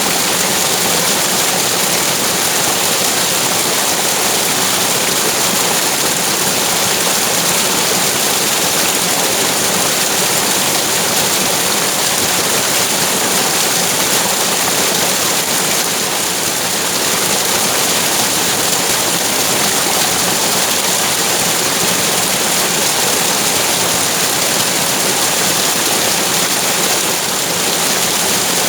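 Flowing water rushing steadily, a continuous even wash of sound.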